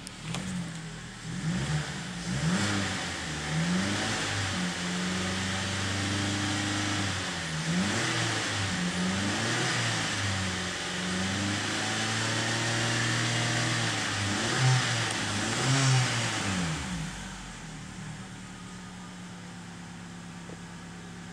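2008 Nissan X-Trail T31's 2.5-litre four-cylinder petrol engine being revved while stationary: a few quick blips from idle, then held up to nearly 4,000 rpm for several seconds at a time, rising and falling repeatedly. About seventeen seconds in it drops back to a steady idle.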